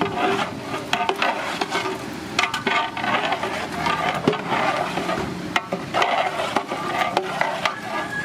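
Metal utensils scraping and clinking irregularly against cooking pots, with many sharp clicks over a busy background din.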